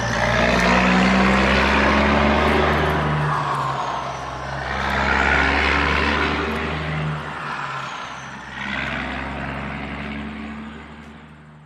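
Loud vehicle engine noise, a steady low hum under rushing noise, swelling and easing several times before fading away near the end.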